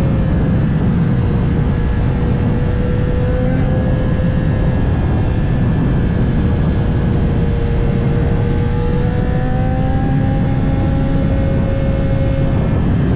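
Kawasaki ZX-10R's inline-four engine running at a nearly steady rpm while riding, its pitch drifting only slightly, under a dense low rush of noise.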